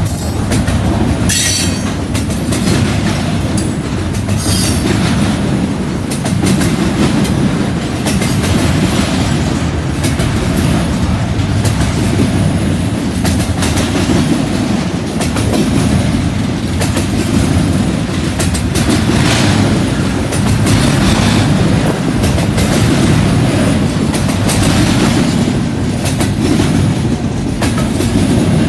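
CN freight train's cars rolling past in a steady, heavy rumble with the clickety-clack of wheels over rail joints. A few short, high wheel squeals break through.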